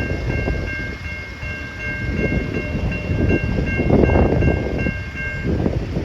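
Safetran Type 3 electronic level-crossing bell ringing, a repeated electronic ding about three times a second, which stops near the end as the crossing's activation ends. A loud, uneven low rumble runs underneath.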